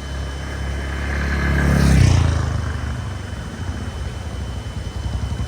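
Motorcycle engine running on the move, growing louder to a peak about two seconds in and then easing off.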